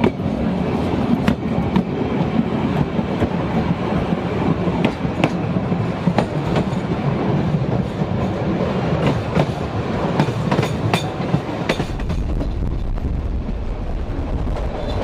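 Sóller railway's old wooden carriages running along the track: a steady rumble with the clickety-clack of wheels over rail joints and sharp clicks and knocks. About twelve seconds in, the sound turns to a deeper, duller low rumble.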